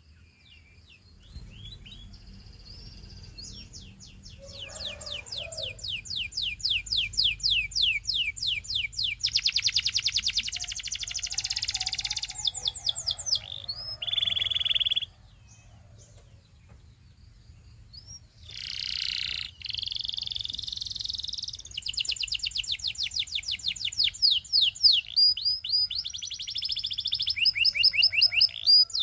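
Canary singing in long, fast trills, each a quick run of the same high down-sweeping note repeated many times, changing from one trill to the next. The song breaks off briefly a little past halfway, then resumes.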